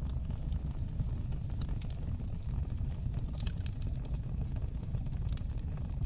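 Fire burning in a fireplace: irregular sharp crackles and pops over a steady low rumble of flames.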